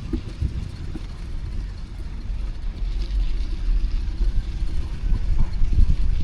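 City street traffic: a low, steady rumble of passing vehicles, growing louder near the end.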